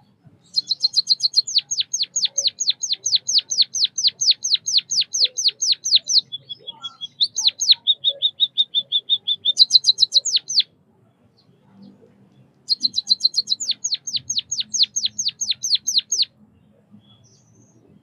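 White-headed munia singing: long runs of high, downward-sweeping chirps repeated about six times a second, broken in the middle by a short buzzy trill at a steadier pitch. After a pause of about two seconds, a second run of the same chirps follows.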